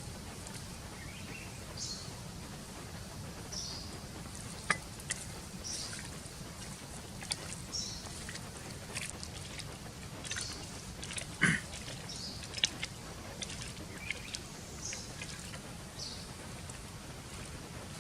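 Short, high bird chirps repeating about every two seconds over a steady low outdoor background, with a few sharp clicks and knocks scattered through, the loudest about halfway.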